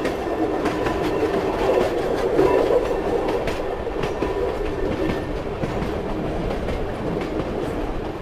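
Moving passenger train: a steady rolling rumble with the wheels clacking over the rail joints.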